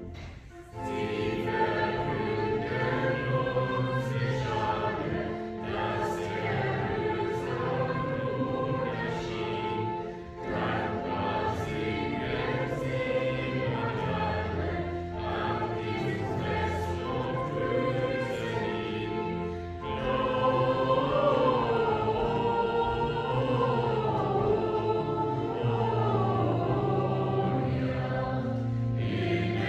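Choir singing a Christmas song with sustained accompaniment, the singing starting about a second in after a brief dip.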